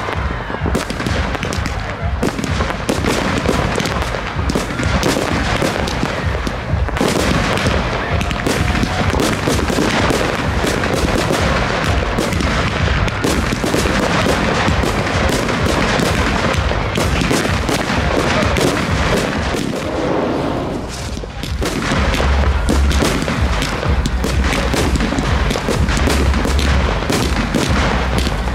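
Aerial fireworks display firing rapidly: shells bursting one after another in a dense run of booms and cracks, easing briefly about three quarters of the way through before picking up again.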